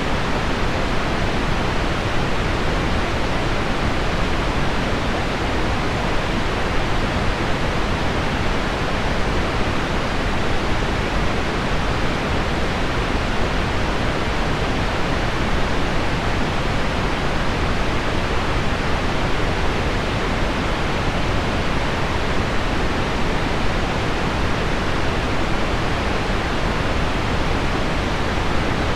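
Steady, even hiss of heavy rain on window glass blended with low pink noise, unchanging throughout, with no separate drops standing out.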